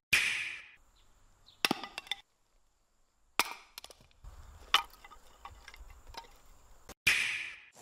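Firewood being chopped: three loud sharp strikes roughly three and a half seconds apart, each trailing off quickly, with lighter wooden knocks between them.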